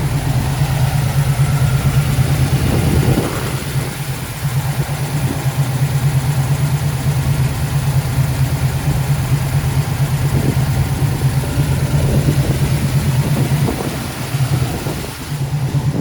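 Custom-built 455 cubic inch Pontiac V8 with headers and dual exhaust, idling steadily with a low, pulsing exhaust note.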